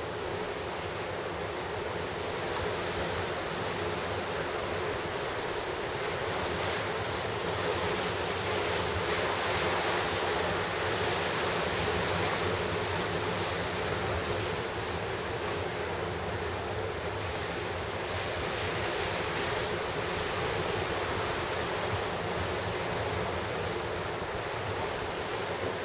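Pacific Ocean surf breaking on the shore in a steady wash, swelling as a wave comes in and then easing, with wind buffeting the microphone.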